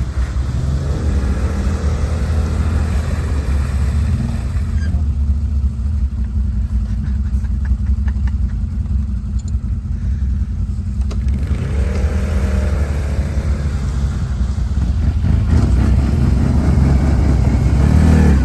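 ATV (quad bike) engine running throughout, working to drive out of a muddy, water-filled ditch. It runs duller in the middle, then revs up with a rising whine about twelve seconds in and stays louder to the end.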